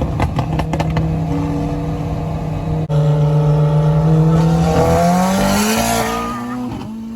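Performance car engine and exhaust holding a steady note, with a few crackles at first, then rising in pitch as it accelerates about five seconds in.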